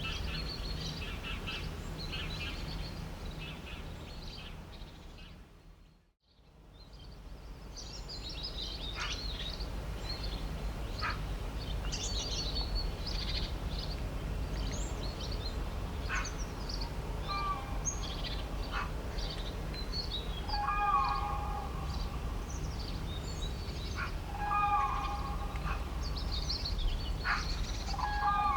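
Birds chirping and calling over a steady low rumble. The whole sound fades almost to nothing about six seconds in and comes straight back. In the second half, one bird repeats a fuller call every few seconds.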